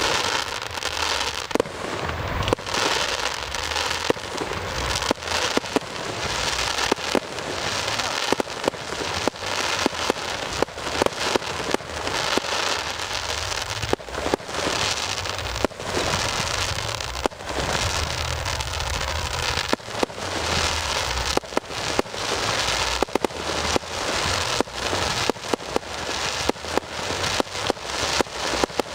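Fireworks display: many sharp bangs, often several a second, over a continuous crackling hiss.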